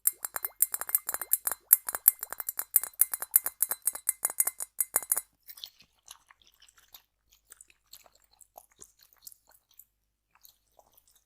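Rapid fingertip tapping on a hard object, about eight quick taps a second, with a faint ringing tone beneath. The tapping stops abruptly about five seconds in and gives way to a few faint, scattered clicks.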